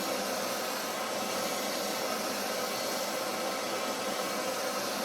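Handheld gas torch burning steadily with an even hissing flame, heating a graphite crucible to keep it from cracking.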